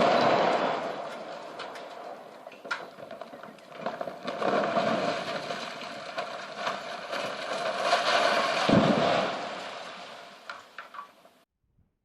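Demolition of a reinforced concrete chimney: the blast's noise dying away into a long crackling rumble of collapsing concrete. The rumble swells again about four to five seconds in and about eight to nine seconds in, with a heavier low thud near nine seconds, then cuts off suddenly near the end.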